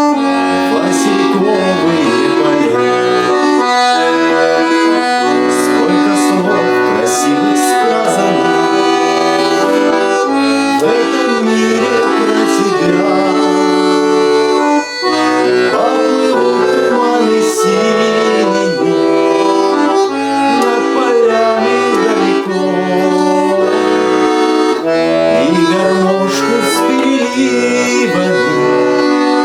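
Accordion playing an instrumental passage of a Russian folk-style song, a melody over held chords.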